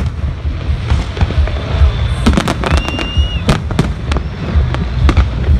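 Aerial fireworks display: a rapid, loud string of sharp bangs and crackles over a continuous low booming rumble, with a short whistle a little under three seconds in.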